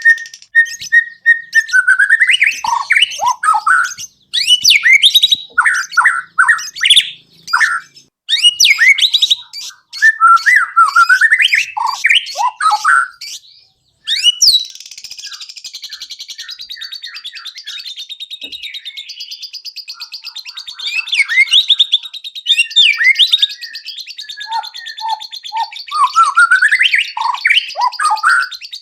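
White-rumped shama (murai batu) singing a full, varied song of rapid whistled phrases that sweep up and down in pitch. After a brief pause about halfway through, a run of dry, buzzy chattering follows before the loud whistled phrases return near the end.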